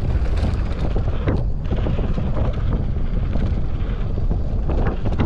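Wind buffeting the microphone over the rumble and clatter of a mountain bike running fast down a rough dirt trail, with frequent small knocks and rattles from the bike.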